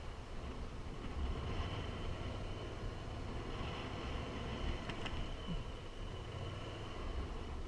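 Motorcycle underway: a steady low engine rumble mixed with wind and road noise, with one brief click about five seconds in.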